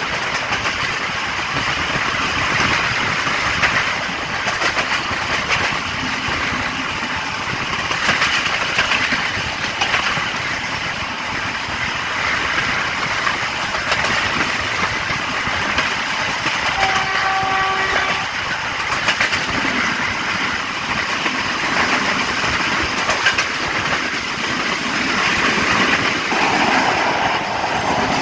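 Express train running at speed, heard from an open carriage door: a steady rush of wheel and wind noise with faint clickety-clack over the rail joints. About 17 seconds in, the Class M6 diesel locomotive's horn sounds once, a single steady note lasting just over a second.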